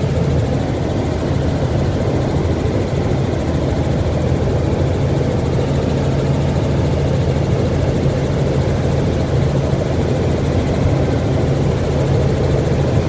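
Helicopter rotor and engine noise: a steady low drone with a constant hum.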